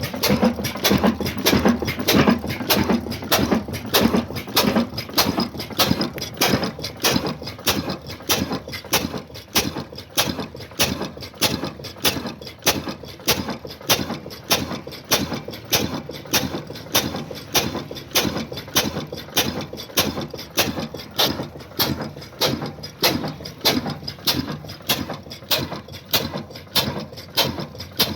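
Old black Ruston Hornsby diesel engine running with a steady, slow beat of about two strong pulses a second, a little louder in the first several seconds.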